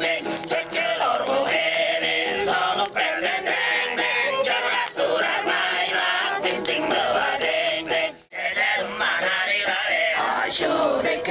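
Group of Tuvan throat singers singing khoomei together in held notes. The singing breaks off for a moment about eight seconds in, then resumes.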